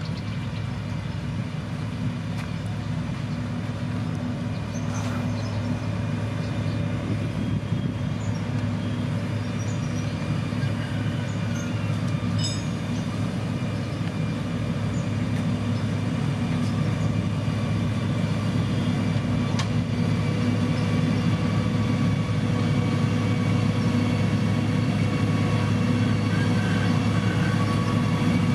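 Heavy diesel construction machinery running steadily with a low, even engine hum that grows a little louder in the second half.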